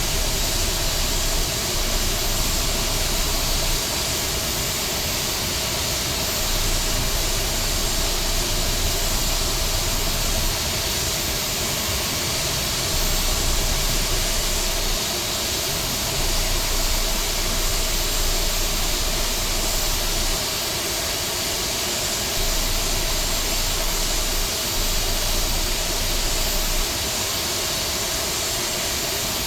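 Airbus A321neo jet engines and airflow, a steady rushing hiss over a low rumble.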